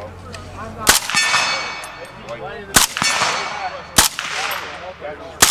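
Four loud rifle gunshots about a second or two apart, each followed by a long echoing tail, with fainter shots between them.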